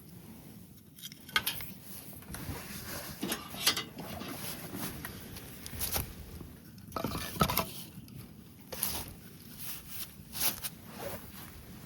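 Irregular small knocks, clicks and rustles, as of camp gear being handled.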